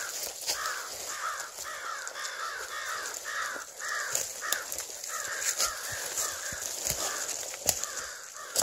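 A bird calling over and over, a few short calls a second, while dry branches brush and snap now and then as someone pushes through dense conifer undergrowth.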